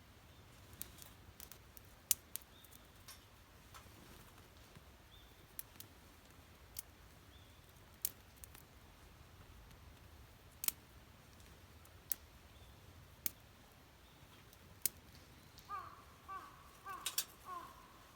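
Campfire wood crackling quietly, with sharp, irregularly spaced pops. Near the end, a few short, pitched animal calls.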